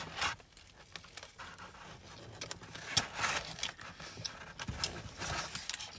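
A bite into a chicken Big Mac and close-up chewing: irregular wet crunches, smacks and clicks of the mouth working the breaded chicken and bun.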